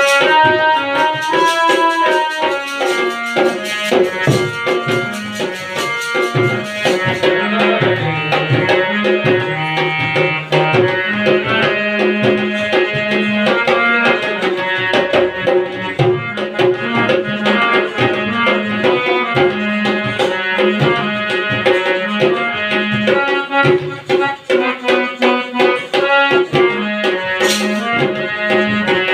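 Harmonium playing the melody of a Hindi film song in sustained reedy notes, with a dholak keeping a steady rhythm underneath.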